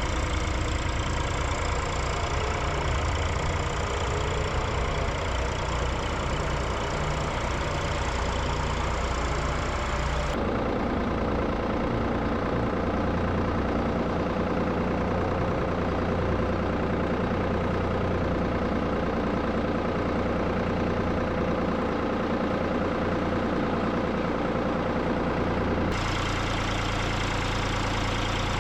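Tractor engine running steadily under load, a low throbbing drone; its character changes abruptly about ten seconds in and again near the end.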